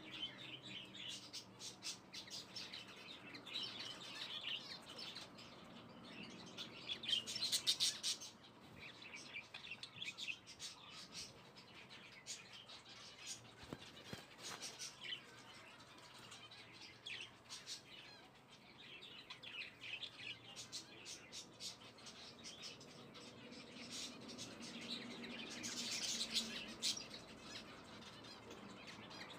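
Small birds chirping and twittering in bursts, loudest about a quarter of the way in and again near the end, with scattered short clicks.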